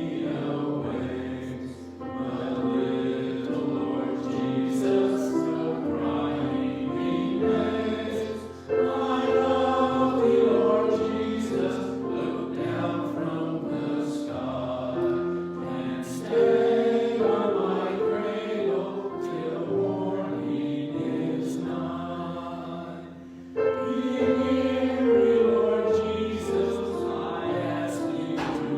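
Choir singing a slow sacred piece in held phrases, with short breaks between the phrases.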